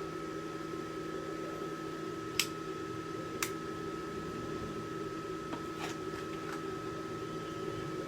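DWT MMA/TIG inverter welding machine idling with its cooling fan running: a steady hum with a steady tone over it. Two sharp clicks a second apart a couple of seconds in, and a few faint ticks later.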